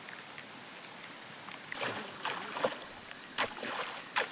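Water splashing and sloshing in irregular strokes in a flooded paddy field, starting about two seconds in.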